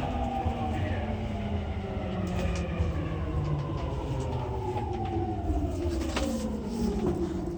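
Interior running noise of a JR East E231 series 800-subseries electric train braking into a station. The traction inverter's whine glides steadily down in pitch as it slows, over a steady low rumble of wheels on rail, with a few sharp clicks from the track.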